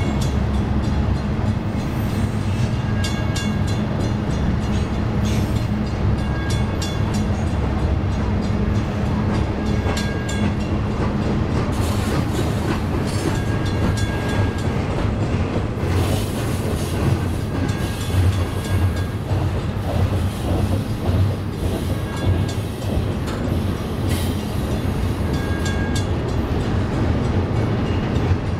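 Double-stack intermodal train of loaded well cars rolling past at close range: a steady rumble of wheels on rail with scattered clicks as the wheels pass over rail joints.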